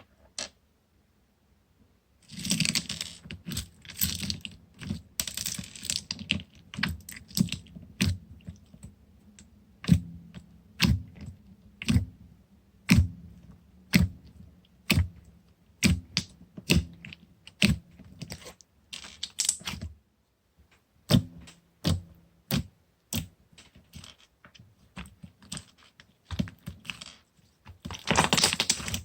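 Toffee slime being pressed and pulled by hand, making sharp clicking pops about once a second, with runs of crackling squish about two seconds in and again near the end.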